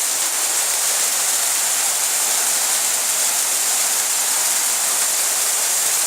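Rain falling steadily, a loud even hiss without a break.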